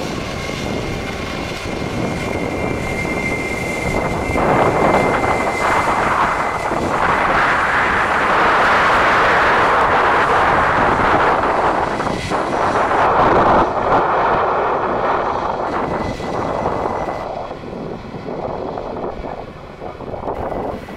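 An airliner's engines passing by: a loud rushing roar that swells, peaks around the middle and fades away, with a steady high whine running through it that stops shortly before the end.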